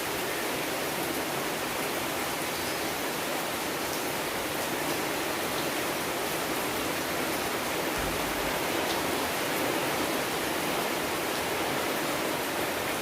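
Steady, even rainfall with a few faint drop ticks.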